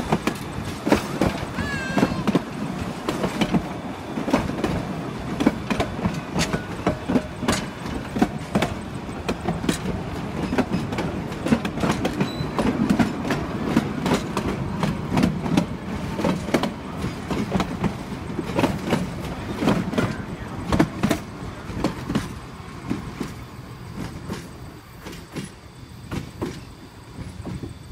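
Train rolling past, its wheels clattering over the rail joints with a steady run of sharp knocks. The sound fades over the last few seconds.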